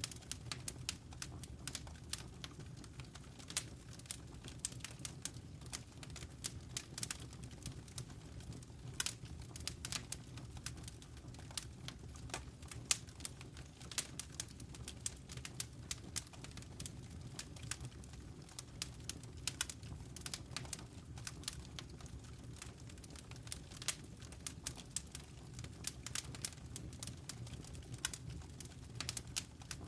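Wood fire crackling in a fireplace: many irregular sharp pops and snaps over a low, steady rumble of burning.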